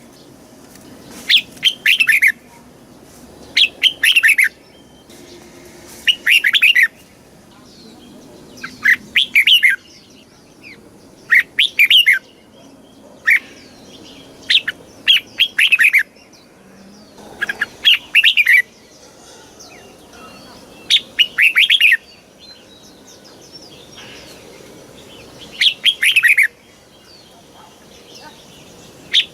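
Red-whiskered bulbul singing: about a dozen short, bright, warbling phrases, each under a second, repeated every two to three seconds, with faint softer chirps between them.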